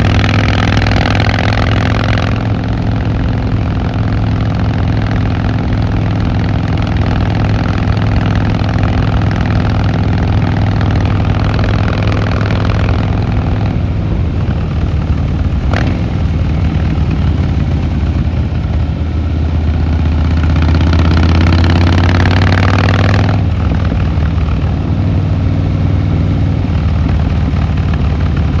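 Harley-Davidson Fat Boy Lo V-twin engine and exhaust running steadily under way. About twenty seconds in it swells louder and rises in pitch for a few seconds as the throttle is opened, then settles back. A single sharp click about two-thirds of the way through.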